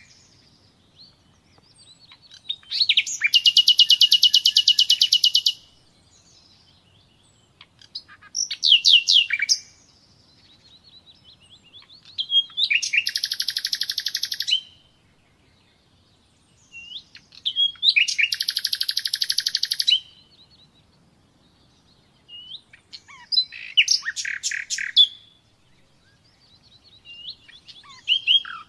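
Nightingale singing: a series of loud song phrases, each a rapid run of repeated high notes lasting one to three seconds, with short pauses between them that hold a few soft whistled notes.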